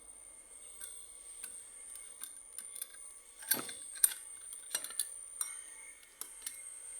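Scattered light clicks and taps from small parts being handled, with a stronger knock about three and a half seconds in, over a faint steady high-pitched whine.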